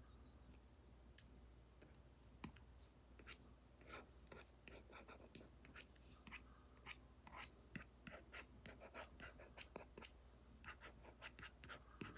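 Apple Pencil Pro tip tapping and stroking on an iPad's paper-like screen protector: quick, irregular clicks and short scratches, few at first and coming thick and fast from about a third of the way in.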